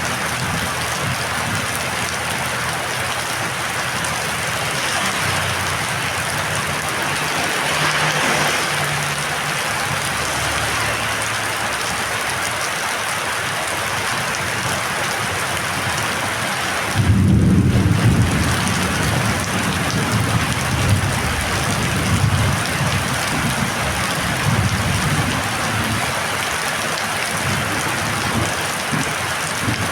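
Heavy rain falling steadily, with a low rumble of thunder that starts suddenly a little past halfway and rolls on in surges.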